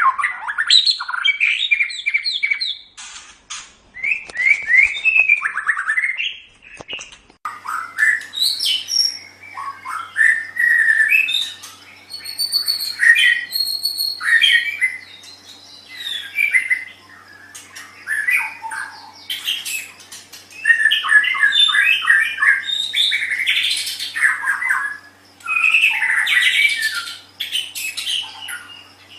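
White-rumped shama singing a long, varied song of rapid whistled phrases, trills and harsh chattering notes, in bouts broken by short pauses.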